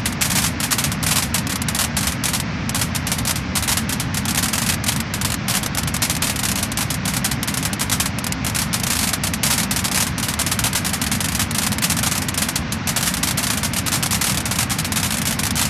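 Wood fire crackling and popping in a dense, continuous run of small snaps over a steady rushing noise.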